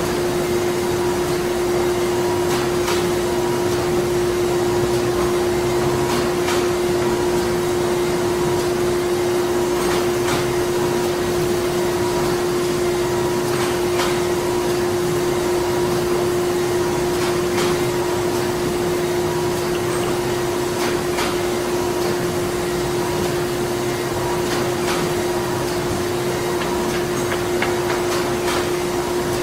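Printing-factory ambience: a steady machine drone with one strong constant hum tone over a hiss, and faint clicks every few seconds.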